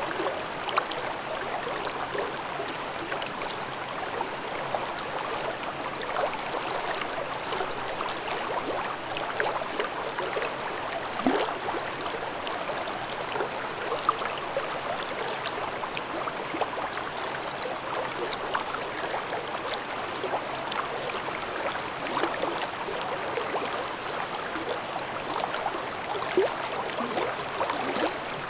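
Mountain stream babbling over rocks: a steady rush of flowing water with constant small gurgles and splashes.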